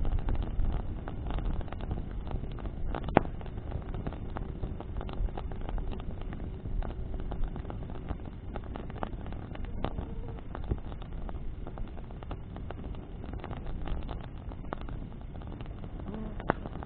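Bonfire burning in the wind: a steady low rumble of wind on the microphone, with scattered crackles of burning wood and two sharper pops, one about three seconds in and one near the end.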